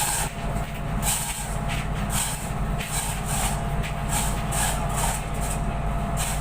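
Steady low drone of a passenger ship's engines, with repeated short bursts of hiss on top.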